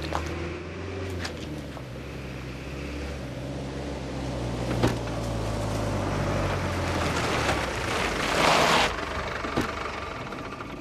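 Land Rover Series III engine running as the vehicle drives up, growing louder as it approaches and loudest about eight seconds in as it draws up close.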